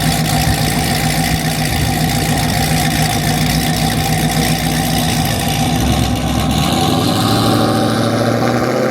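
Car engine idling loudly close by, a steady low note; about six seconds in its note shifts and the lowest rumble drops away.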